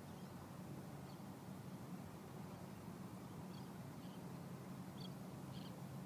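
Faint, steady outdoor background noise with a few short, high bird chirps scattered through it, two of them close together near the end.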